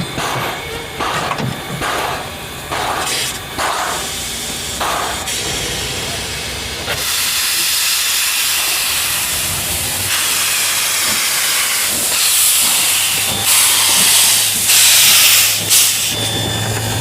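Steam locomotive working: a steady run of exhaust chuffs, a little over one a second, then from about seven seconds in a loud hiss of escaping steam, with several louder gusts near the end.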